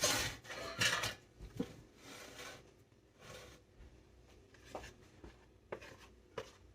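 Spoon scraping brownie mix out of its box, with papery rustling and a few light clicks and knocks. The scraping is loudest at the start and again about a second in, then fainter.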